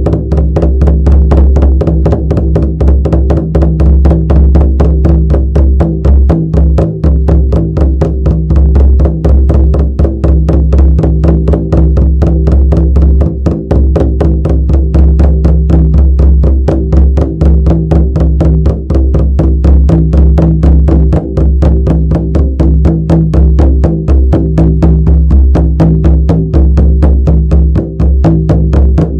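Shamanic frame drum beaten in a fast, even, unbroken rhythm, each stroke leaving a deep ringing boom.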